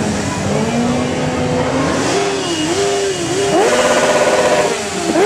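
Motorcycle engine with an open exhaust revved in neutral while standing still. The pitch climbs and wavers, jumps up sharply about three and a half seconds in, then drops briefly near the end and rises again.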